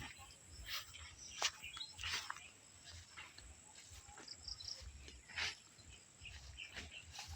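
Outdoor rural ambience: a few faint, brief bird chirps and scattered short rustling sounds over a low rumble.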